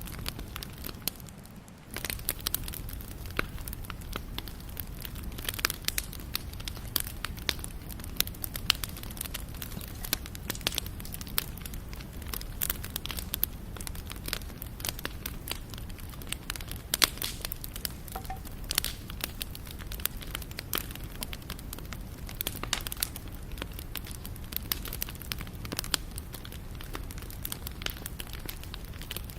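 Wood fire burning, with constant irregular crackling and sharp pops over a low steady rumble of the flames. The sound dips briefly and comes back sharply about two seconds in.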